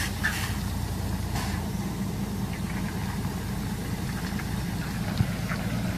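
Heavy vehicle's diesel engine idling steadily, with one short click about five seconds in.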